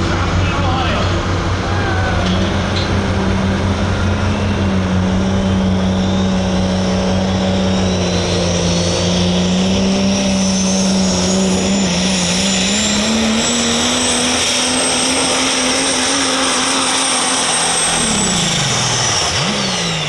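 Super stock diesel pulling truck's engine running hard under load, with a high turbocharger whistle that climbs and then holds. Near the end the engine and the whistle both wind down as the throttle comes off.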